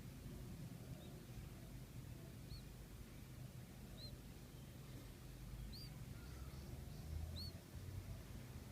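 Five short, high bird chirps, each a quick up-and-down note, spaced about a second and a half apart, the last two the loudest, over a faint steady low hum.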